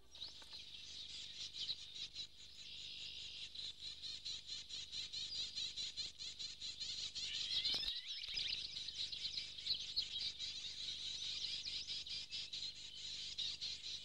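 Northern flicker nestling begging calls: a rapid, continuous chatter of short high chirps, a little louder from about halfway through.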